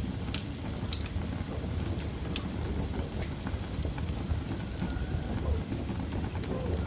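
Wood fire burning in a fireplace: a steady low rush of flames with scattered sharp crackles from the burning wood, one louder pop about two and a half seconds in.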